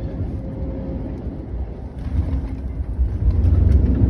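Airliner cabin noise during landing: a steady low rumble that grows louder and heavier about three seconds in, with light rattling.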